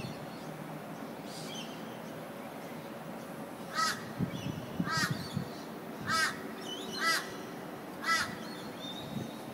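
A bird calling five times, about once a second, each call short and loud, starting a few seconds in, over a steady background hiss.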